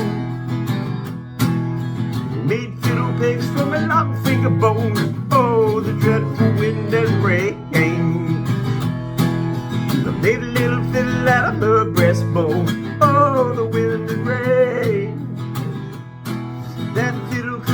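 Acoustic guitar playing an instrumental break between verses of a folk ballad, picked single notes over strummed chords.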